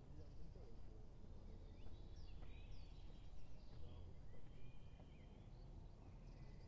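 Faint songbirds chirping and whistling, mostly in the middle few seconds, over a low rumbling outdoor background.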